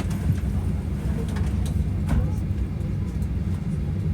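Steady low hum of cabin noise inside a Boeing 737-800 on the ground, with faint murmuring voices and a few small clicks.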